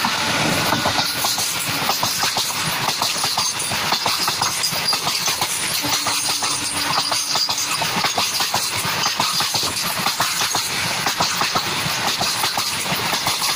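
Freight train of covered wagons rolling past close by, steel wheels clattering rapidly and steadily over the rail joints. As it begins, the second of two WAG-7 electric locomotives is just going by.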